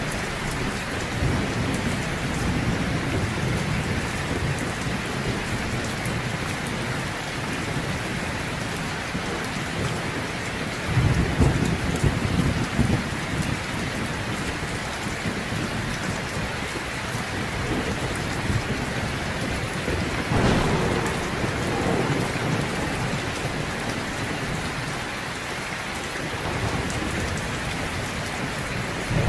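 Heavy rain falling steadily, with a low rumble of thunder about eleven seconds in and a weaker one past the middle.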